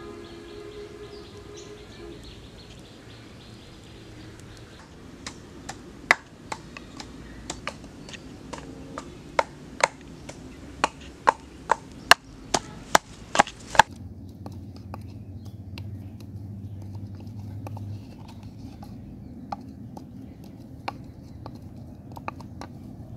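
Chopping with a blade: a run of about fifteen sharp strikes, quickening and getting louder over several seconds, then stopping abruptly, followed by a few lighter knocks. Faint bird or insect calls are heard near the start.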